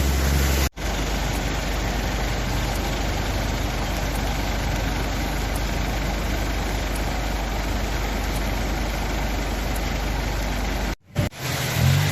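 Loud, steady rushing of flash-flood water, an even roar with no clear rhythm, broken by abrupt cuts under a second in and near the end.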